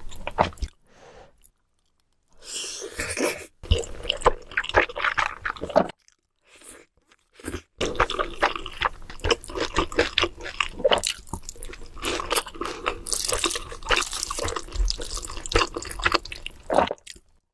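Close-miked mukbang eating sounds: wet chewing, smacking and crunching of food in quick, dense clicks, broken by a few abrupt cuts to silence.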